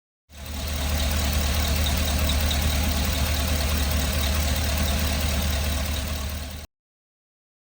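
2019 Chevrolet LCF 4500 box truck's engine idling steadily, with a strong low hum. It comes in quickly just after the start and cuts off abruptly about a second before the end.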